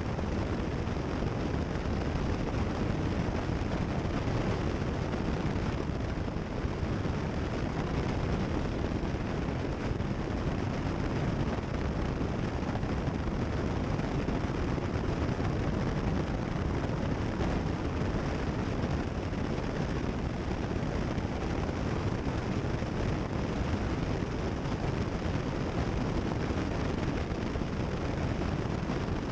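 Cessna 172 Skyhawk in cruise flight: a steady, unbroken rush of engine and airflow noise that holds an even level.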